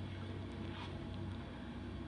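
Freight train of loaded oil tank cars rolling past at a distance, a steady low rumble with a couple of faint clicks.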